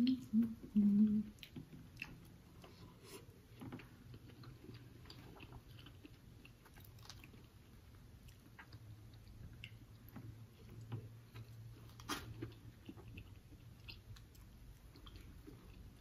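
Close-miked chewing and biting of fried fish and fries, with scattered small clicks and taps of plastic forks in styrofoam containers. A few short low hummed sounds in the first second are the loudest part.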